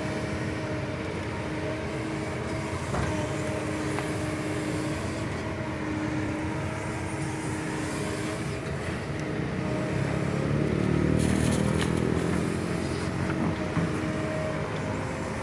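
Excavator's diesel engine running steadily. About ten seconds in its note rises and grows louder for a couple of seconds, then settles again.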